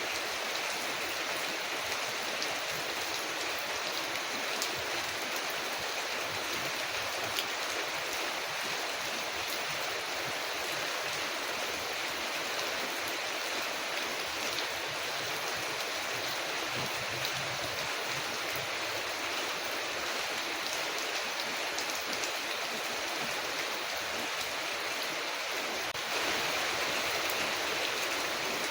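Steady rain falling on a window, a dense even hiss with scattered small ticks of drops, growing slightly louder near the end.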